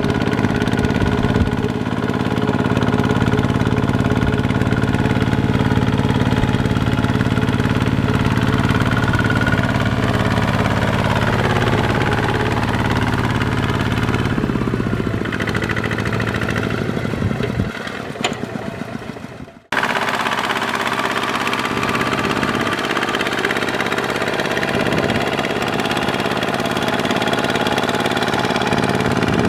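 Kubota ZT140 single-cylinder diesel engine running steadily under plowing load. About two-thirds of the way in the sound wavers and fades, breaks off abruptly, then comes straight back.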